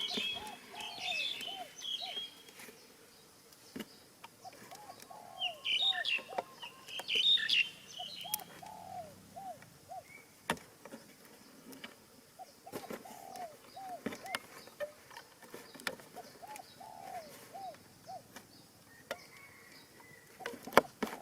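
Pigeons cooing in repeated phrases of short, arched notes. Higher chirps from small birds are the loudest thing near the start and again about six to eight seconds in, with a few sharp clicks.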